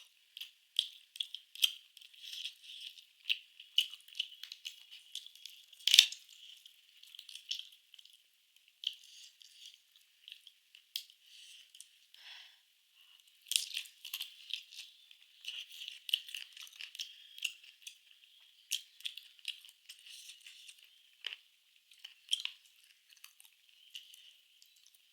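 Close-miked eating sounds: chewing and crunching of food in irregular sharp crackles and clicks, with one louder crack about six seconds in.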